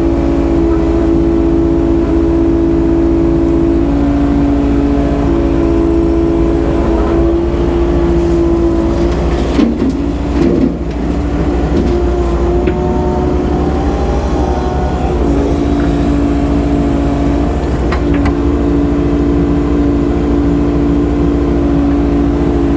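Excavator's diesel engine running steadily under hydraulic load while digging and loading a dump truck. About ten seconds in, the engine note wavers and shifts with a few clunks, holds a different pitch for a few seconds, then settles back to its steady hum.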